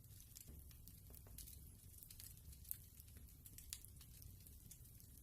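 Faint fireplace crackling: sparse, irregular soft pops and snaps over a low rumble.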